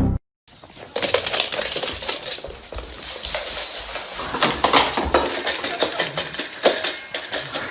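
Continuous crunching and crackling made up of many quick clicks, starting about a second in after a brief loud burst.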